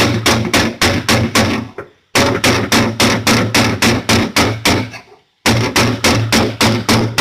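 Hammer beating out dents in a BMW's sheet-metal body panel, quick even strikes about four a second, in runs broken by brief pauses about two and five seconds in.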